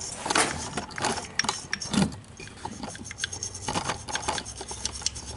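Soft-bristled brush scrubbing the float bowl of a single-barrel carburetor, in irregular rubbing strokes with scattered small clicks and knocks.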